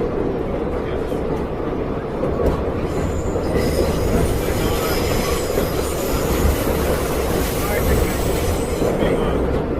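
Subway train running on the tracks with a steady rumble, and high metallic wheel squeal from about three and a half seconds in until near the end.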